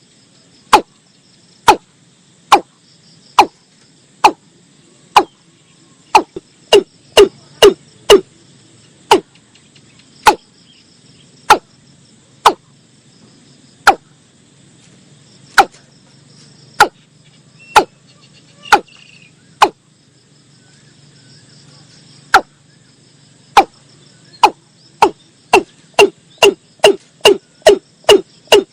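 Watercock calling: a series of loud, sharp notes, each dropping quickly in pitch, spaced about a second apart and quickening to about three a second near the end. Insects trill faintly and steadily behind.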